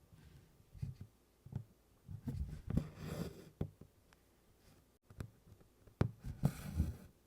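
Embroidery needle tapping and piercing stiff 24-count canvas, with cotton floss drawn rasping through the holes twice, about three seconds in and near the end, between light taps and thumps on the cloth and frame.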